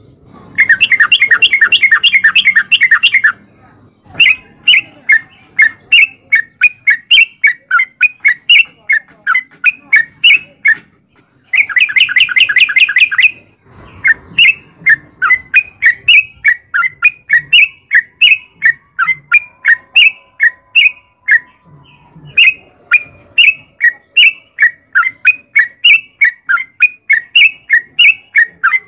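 Yellow-vented bulbul (trucukan) singing, in two bursts of rapid rolling chatter of a second and a half to three seconds each. Between the bursts come long runs of separate short chirps, about three a second.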